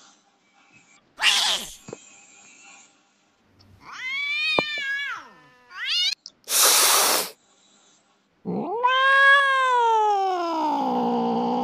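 Cat meowing and yowling: a meow that rises and falls about four seconds in and a short rising call, with two short hisses. From about eight and a half seconds comes a long, drawn-out caterwaul whose pitch sags and then climbs again.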